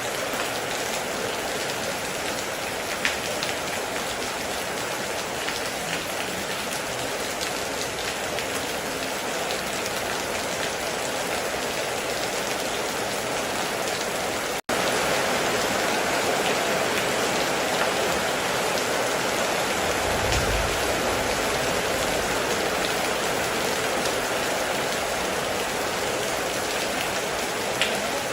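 Heavy rain falling steadily, with scattered sharper drop ticks. It drops out for an instant about halfway, then comes back slightly louder, with a short low rumble about twenty seconds in.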